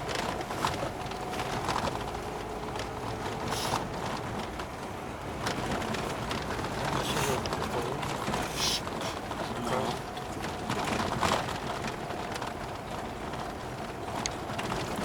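Road and engine noise inside a moving car, a steady low rumble with scattered short knocks and rattles.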